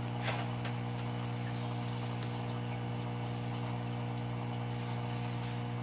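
A steady low hum with a few faint clicks and light rustles over it.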